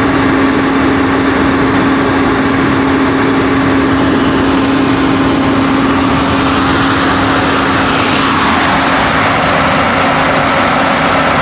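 John Deere 6068 six-cylinder diesel engine running steadily on a 100 kW generator set, with a strong steady hum. Around the middle, a fainter sound glides down in pitch and settles.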